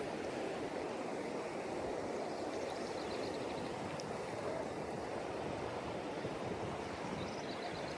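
Kern River water rushing past in a steady, even wash.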